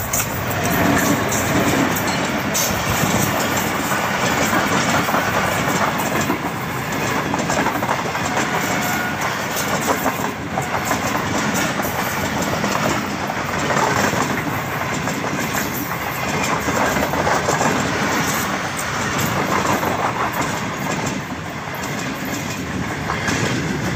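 Pakistan Railways passenger train passing close by: a diesel locomotive goes past, then the coaches roll by with a steady rumble and a continuous clatter of wheels over the rails.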